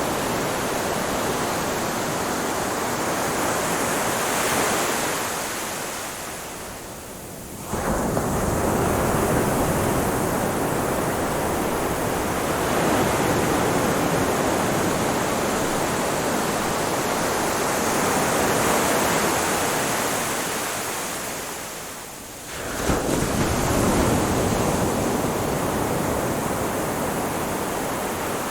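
Ocean surf washing onto a shore as a steady rushing wash. Twice it ebbs to a lull and then comes back suddenly as the next wave breaks, about a quarter of the way in and again about three-quarters of the way in.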